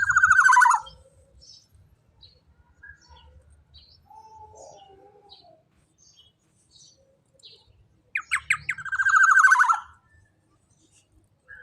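Black-naped oriole (kepodang emas) giving loud harsh calls: a few sharp notes run into a fast buzzy rattle, once at the start and again about eight seconds in, with soft scattered notes between.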